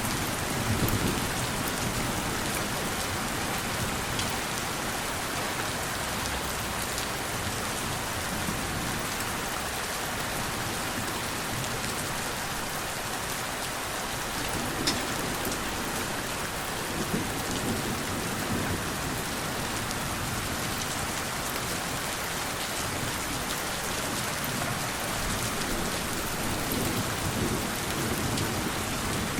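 Steady rain falling, with scattered drop ticks through it. Gentle low thunder rumbles at the start, again around the middle, and near the end.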